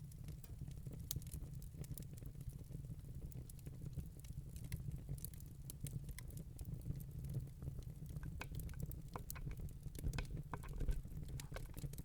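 Wood fire burning in a fireplace: a steady low rumble of the flames with irregular sharp crackles and pops from the burning logs, a little denser in the second half.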